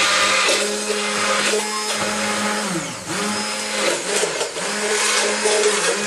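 Electric blender switched on and running, mixing raw egg with salt and sugar as the start of homemade mayonnaise. The motor hum dips in pitch briefly several times.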